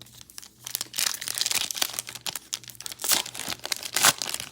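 Foil trading-card pack wrapper crinkling and tearing as it is handled and torn open, a dense run of crackles loudest near the end.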